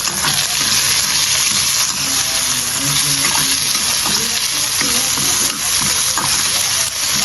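Food sizzling steadily in a hot pan of curry, a constant crackling hiss.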